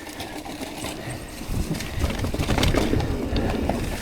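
Mountain bike rolling down a dirt trail: tyres on dirt, the bike rattling and clicking over bumps, and a low wind rumble on the helmet camera's microphone. It grows louder about halfway through as the bike picks up speed.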